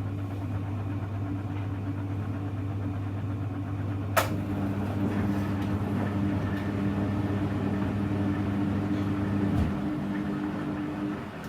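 Hoover Electra front-loading washing machine running mid-cycle with a steady hum. A sharp click comes about four seconds in, after which a second, higher hum joins and drops away just before the end.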